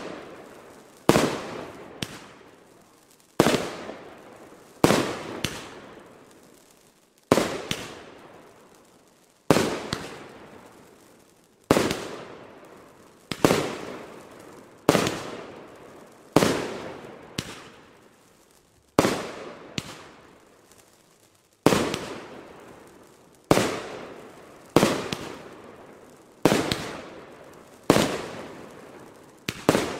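Consumer firework battery (cake) firing aerial shots in sequence: a sharp bang about every one to two seconds, each fading away before the next.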